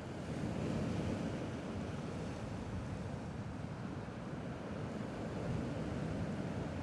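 Sea waves washing on the shore, a steady rush of water that swells slightly about a second in and again near the end.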